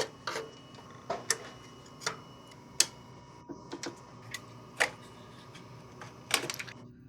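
Irregular sharp clicks and taps, about a dozen spread unevenly, from headlight parts being handled and unclipped during a headlight teardown.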